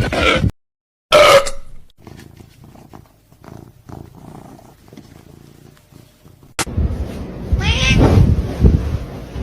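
A domestic cat's loud calls, twice: one a little over a second in that falls in pitch, and a wavering one about eight seconds in. Between them are faint knocks and rustles, and there is a sharp click before the second call.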